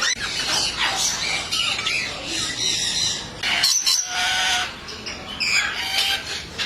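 Several birds squawking and calling over one another in short, harsh calls, with one clearer pitched call held briefly about four seconds in.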